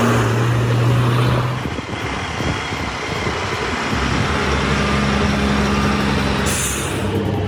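Heavy truck engine running with a steady low hum. The engine note changes about two seconds in and settles again about four seconds in.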